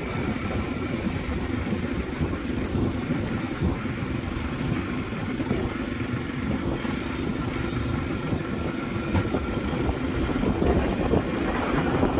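Motorbike engine running while riding, with wind buffeting the microphone; the noise grows slightly louder in the last couple of seconds.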